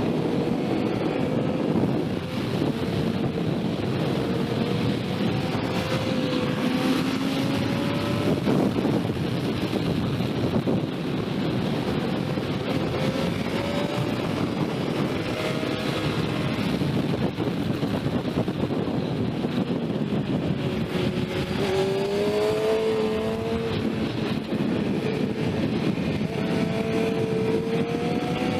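Sport motorcycle engine pulling hard, its pitch climbing and dropping back several times as it accelerates and shifts, under heavy wind rush on the microphone.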